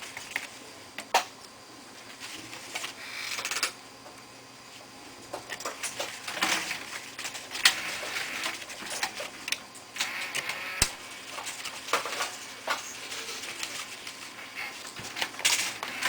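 Plastic and metal parts of a Toshiba A300 laptop being handled and fitted during reassembly: irregular sharp clicks and taps, with a few brief scraping sounds.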